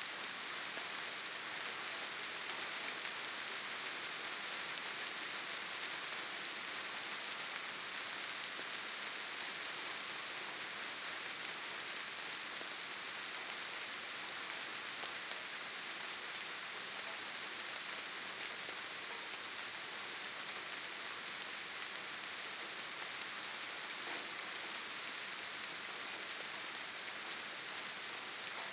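Steady rain falling: an even, dense hiss that holds without a break.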